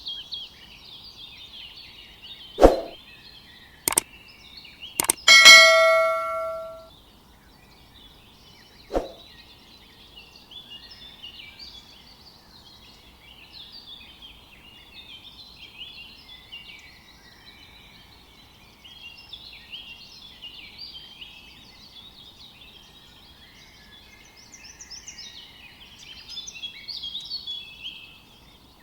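A few sharp knocks, then a metallic clang that rings on for about a second, and one more knock a few seconds later, as from tools or metal parts being struck or set down during hand work. Birds chirp throughout.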